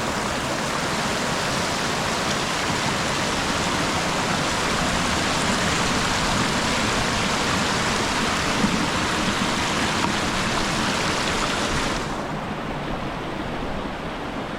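A small river rushing over rocks: a steady hiss of running water. About twelve seconds in, the brighter top of the rush drops away and it becomes a little quieter.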